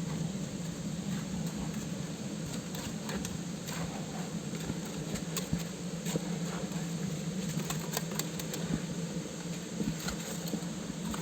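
Steady rushing of a waterfall and river, a constant low noise, with scattered small clicks over it.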